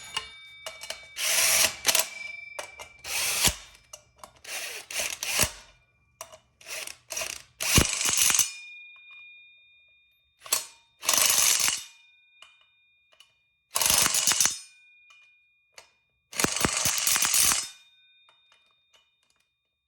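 Ratchet wrench clicking in about eight short bursts, running nuts on the motorcycle's rear sprocket.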